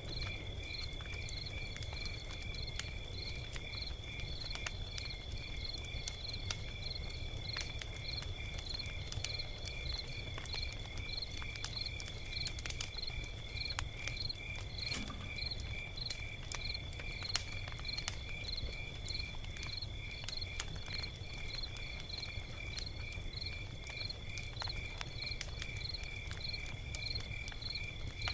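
Log fire crackling with scattered sharp pops over a low rumble, while insects chirp steadily in the background with a high, even trill and regular chirps about twice a second.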